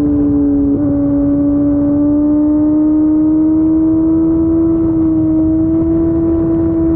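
Kawasaki ZX-14R's inline-four engine through an Akrapovic Racing Line exhaust, running at a steady cruise with its pitch creeping slowly up, with a brief small dip about a second in.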